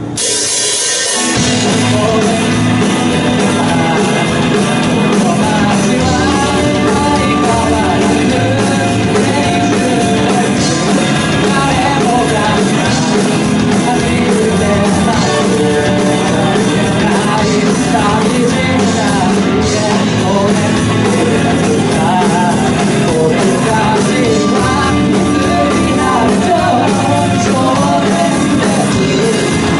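Loud live pop-rock music with keyboard and a singing voice, starting abruptly at the beginning.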